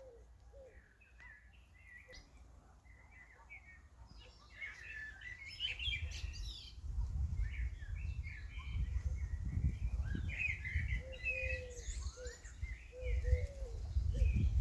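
A flock of small birds chirping and twittering, getting much busier about four seconds in, with a dove's low coo near the start and again near the end. A low rumbling noise runs under the later part.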